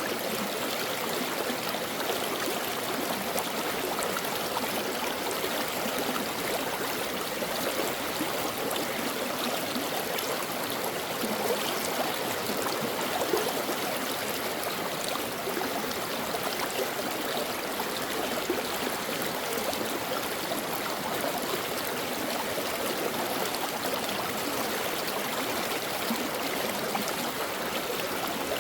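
A brook flowing over rocks, a steady, unbroken babbling and splashing of running water.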